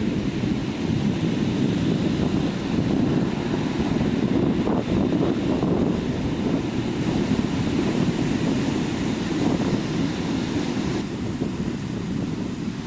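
Steady wash of sea surf breaking on a sandy beach, with wind rumbling on the microphone.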